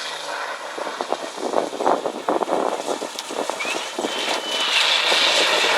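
Off-road vehicle driving over a washboard course of bumps, its running noise broken by many irregular knocks and rattles. A high steady tone rises in briefly about halfway through.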